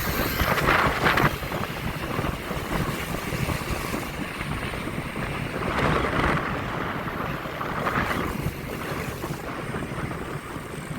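Wind buffeting the microphone while riding, a steady rushing rumble that swells and eases over a low vehicle drone.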